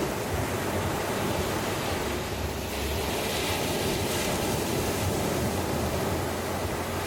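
Ocean waves breaking and washing up a beach: a steady surf hiss, with a brighter wash of water swelling about three seconds in.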